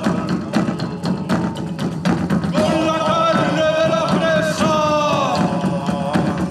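A band playing live: a steady run of sharp percussion strikes, joined partway through by a sustained melody that bends and slides in pitch.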